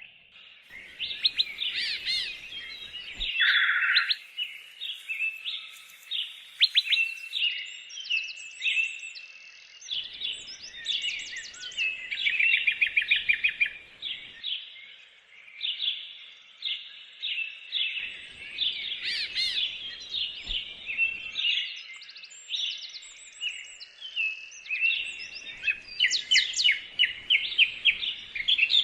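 Several birds singing at once, a dense chorus of chirps, trills and fast repeated notes overlapping throughout.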